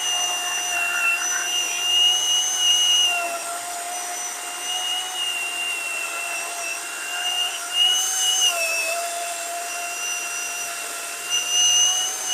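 Worx WG385E cordless electric chainsaw cutting through a hard pine log, its motor and chain whining steadily under load. The pitch sags briefly a few times as the chain bites harder into the wood.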